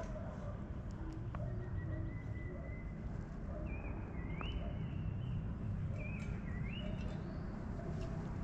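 A bird in the forest calling: a thin held whistle, then two rising, swooping whistled calls a couple of seconds apart, over a steady low background rumble.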